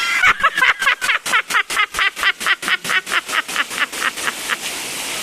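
A long run of rapid laughter, about five bursts a second, fading out after about four and a half seconds, over steady rain.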